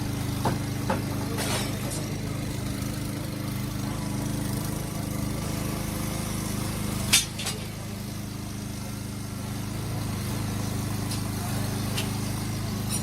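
An engine idling steadily. There are a few faint clicks early on and one sharp knock about seven seconds in.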